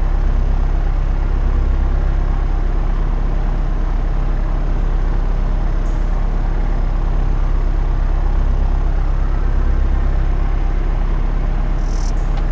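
Cessna 172RG Cutlass's four-cylinder Lycoming engine and propeller running with a steady drone, with a brief hiss about halfway through and again near the end.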